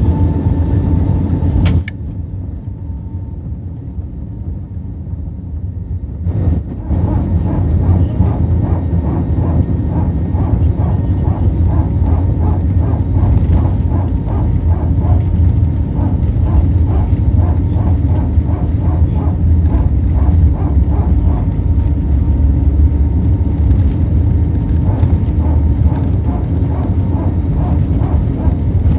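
Airbus A320neo cabin noise: a loud, steady, low rumble from the engines and airframe. About two seconds in, a click and the level drops, then it rises again a few seconds later.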